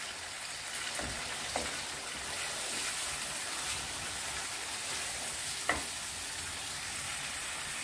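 Chicken pieces sizzling steadily in hot oil in a non-stick pan over a full gas flame while being stirred with a wooden spatula, browning with garlic-ginger paste and black pepper. A few sharp knocks of the spatula against the pan, the loudest about two-thirds of the way through.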